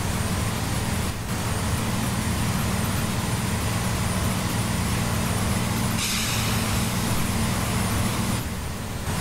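2016 Blue Bird Vision school bus under way: a steady low engine drone with road noise. There is a short hiss about six seconds in, and the sound dips briefly twice.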